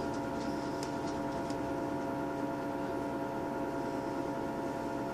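Steady drone inside a Class 158 diesel multiple unit on the move: engine and running gear hum with several steady tones over a low rumble, with a few light clicks in the first second and a half.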